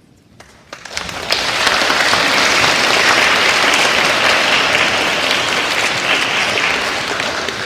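Audience applause starting about a second in after the final note of a choir performance dies away, then held steady and easing slightly near the end.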